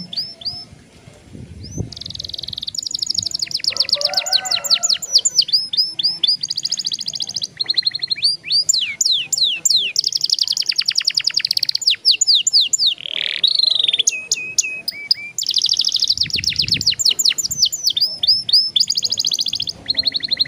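Young canary singing long rolling trills: rapid runs of high, downward-sweeping notes with a brief pause about a second in.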